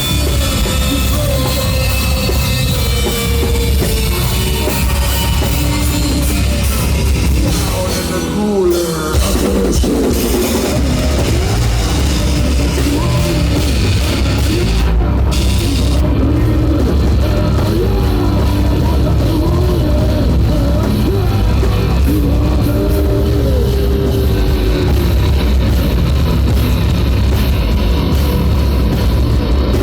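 Live rock band playing loud heavy-metal-style music, a drum kit pounding under guitars and bass. The music dips briefly about eight seconds in, then carries on.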